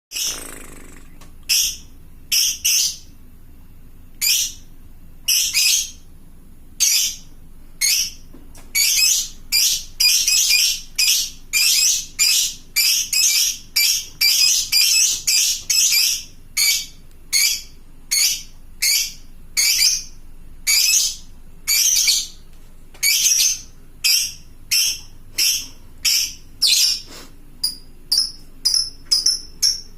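Lovebird giving a long 'ngekek' run of shrill, high-pitched chattering calls, a call to other lovebirds. The calls come about twice a second: spaced out at first, packed closer from about nine seconds in, and turning into short, quick calls near the end.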